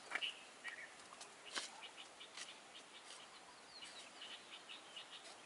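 Faint birdsong: short, high chirps repeating throughout, with a couple of sharp clicks near the start and about a second and a half in.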